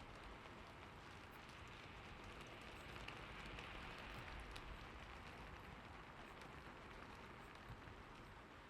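Soft, steady rain, an even hiss with scattered little drop ticks, swelling slightly a few seconds in.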